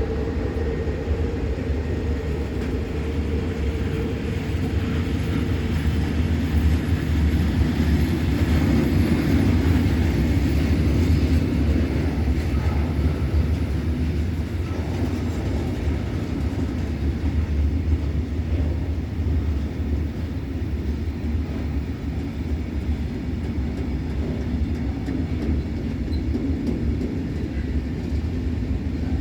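Freight train rolling past, a steady rumble of wagon wheels on the rails that swells a little about a quarter of the way in and then eases.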